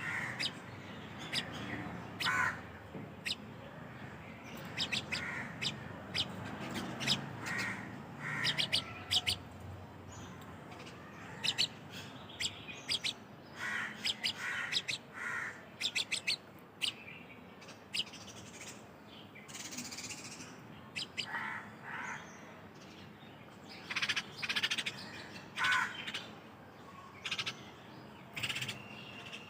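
Birds calling: many short calls in clusters with pauses between them, mixed with higher, sharper chirps.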